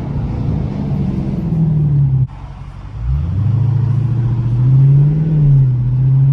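Dodge Challenger Scat Pack's 6.4-litre HEMI V8 running through a mid-muffler-delete exhaust in sport mode, under throttle. About two seconds in, the engine note cuts off sharply on a gear change, then picks up again a second later, rising in pitch and staying loud.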